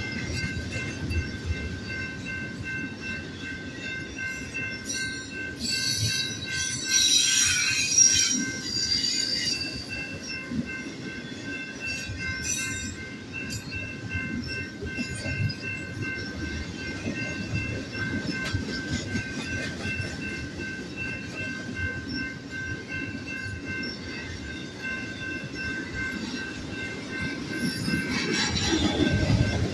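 Double-stack intermodal freight cars rolling past with a steady rumble of wheels on rail, the wheels squealing loudly about seven seconds in and again near the end. A grade-crossing warning bell rings in an even, repeating beat over it.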